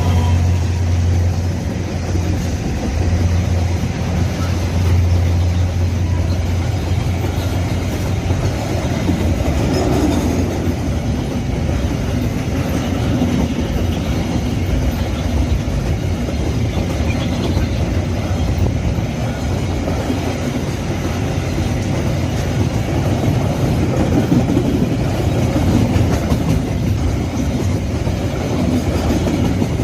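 Babaranjang long coal train running on the rails, its wagon wheels clattering steadily over the track. A low hum sits under the clatter for about the first ten seconds.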